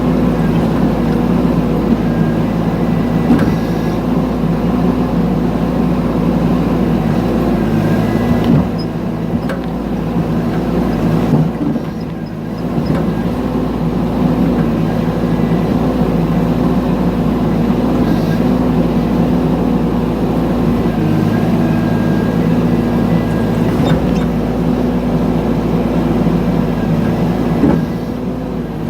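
Mini excavator's diesel engine running steadily while digging, with its pitch holding level. A few knocks are heard, and the engine eases off briefly a couple of times.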